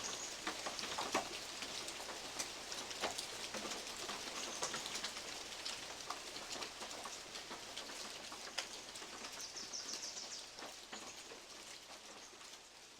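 Rain falling, with big drops from the trees striking a metal roof in scattered sharp taps over a steady hiss. A bird chirps faintly a couple of times. The whole sound fades down over the last few seconds.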